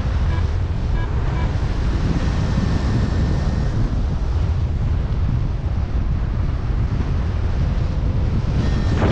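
Strong wind rushing and buffeting over the microphone in paragliding flight, a steady loud rumble. A few short high electronic beeps sound in the first second and a half.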